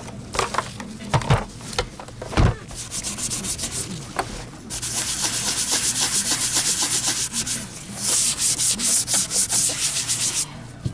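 A few handling knocks, then rapid back-and-forth rubbing and scrubbing on the vacuum power head's plastic housing, several strokes a second, strongest from about five seconds in with a short break near eight seconds.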